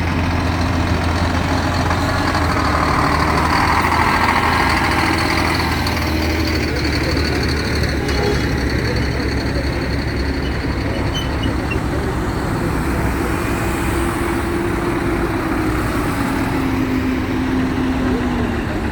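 Heavy vehicle engines running steadily as a procession of trucks and tractors goes by, growing a little louder about four seconds in as one passes close.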